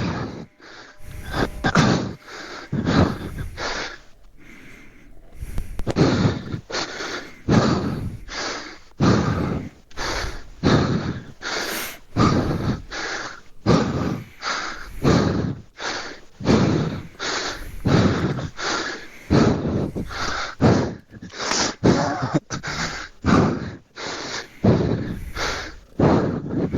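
A person panting hard, heavy breaths in and out about once a second: out of breath after hard physical effort.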